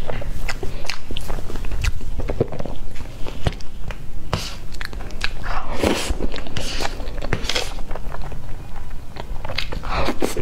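Close-up mouth sounds of eating soft cream cake: wet chewing and lip smacks, with many short, sharp clicks spread through.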